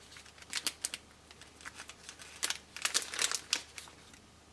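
Clear plastic wrapping film crinkling in irregular bursts as it is handled while a string bow is tied around it, the crackles coming in clusters just under a second in and again around three seconds in.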